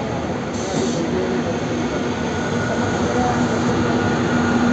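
Electric suburban train running at speed, heard from its open doorway beside a parallel express train: a continuous rumble and rush of wheels and air, with a steady low hum that comes in about a second in.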